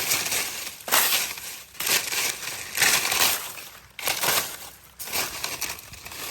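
Dry leaf litter crunching in a regular series of strokes, about one a second.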